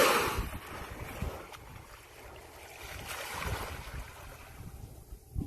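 Wind buffeting the microphone over water and waves around a small boat, with gusty low rumbling. A loud rushing burst right at the start fades over about half a second.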